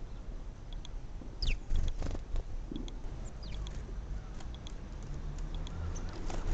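Small garden birds at a feeder: two short, high chirps that slide downward, with light taps and pattering over a low rumble.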